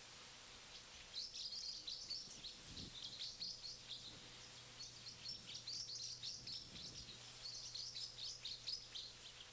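Songbird singing: two long runs of rapid chirps, the first starting about a second in and the second about five seconds in, over a faint steady hum.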